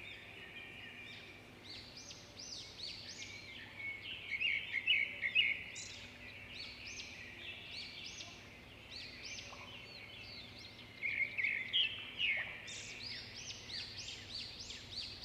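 Many birds chirping and twittering at once, their short calls overlapping, with louder bursts of calls near the middle and again toward the end.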